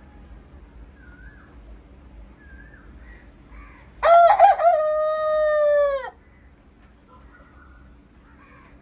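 A rooster crowing once, a loud call about two seconds long that starts about four seconds in and drops in pitch as it ends.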